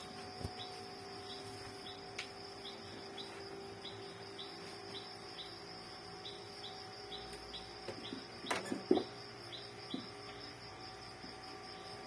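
Crickets chirping: a steady high pulsing trill with a short chirp repeating a little over twice a second. A few knocks land about eight and a half to nine seconds in, the loudest near nine seconds.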